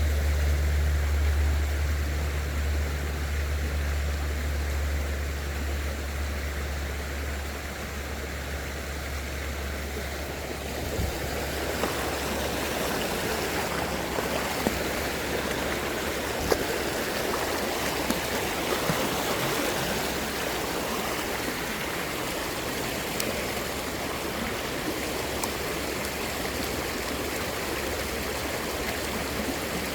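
Creek water flowing and rushing steadily, with a low rumble under it for the first ten seconds or so and a few faint ticks later on.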